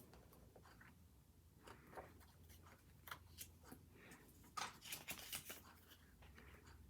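Hands handling paper and stationery on a planner page: faint, scattered ticks and rustles, with a quick cluster of sharper clicks a little past halfway.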